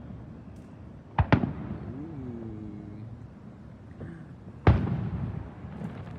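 Sharp bangs: two close together about a second in, then a louder one near five seconds, each dying away quickly.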